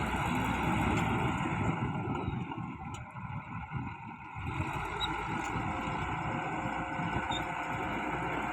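Bulldozer engines running steadily under load, with a brief easing off about three seconds in before picking up again.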